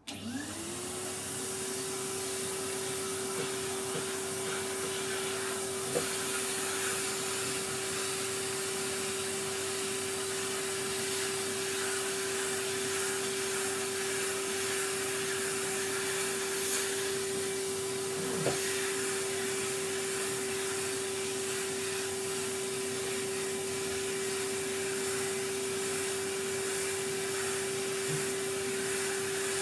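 Vacuum cleaner switched on: the motor spins up over about a second, then runs steadily with a whine and a rush of air, sucking up sanding dust, with a few light knocks along the way.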